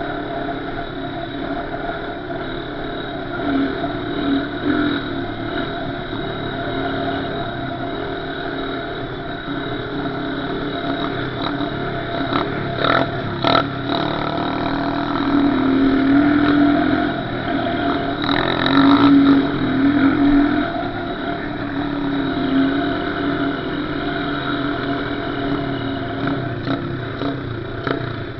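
Small off-road engine running while riding, its note rising and falling with the throttle and louder through the middle.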